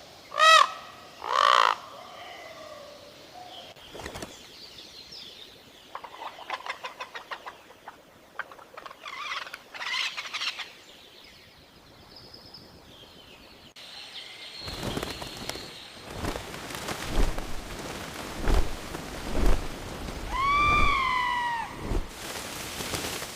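Birds calling: two loud calls near the start, scattered chirps and whistles after that, and one downward-arching call near the end. From about two thirds of the way in, a run of knocks and thumps sounds alongside the calls.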